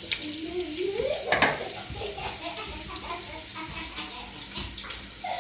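Steady rush of running water, like a tap running, with one sharp clatter about a second and a half in.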